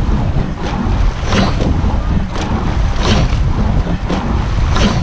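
Racing rowing boat underway at race pace: the oars and boat give a sharp knock-and-rush with each stroke, about one every second and three-quarters, with a fainter sound between strokes. A steady low rumble of wind on the microphone runs under it.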